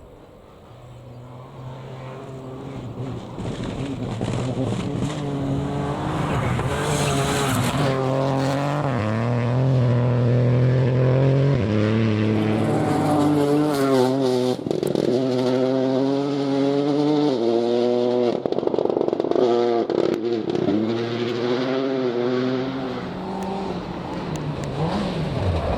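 Rally car engine approaching, growing louder over the first ten seconds or so, with repeated gear changes and revs rising and falling sharply as the driver works through the corners.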